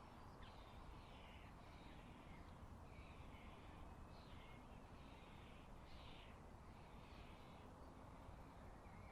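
Faint, harsh bird calls repeated about once a second, over a steady low background rumble.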